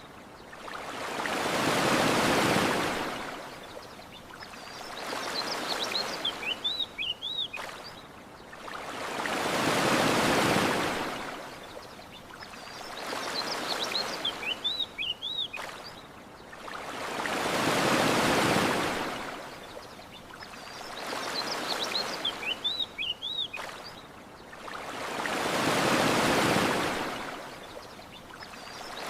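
Gentle ocean waves washing onto a beach, each swell rising and falling over about four seconds, a bigger one every eight seconds. A short run of small bird chirps comes just before each bigger swell; the whole pattern repeats exactly, as a loop.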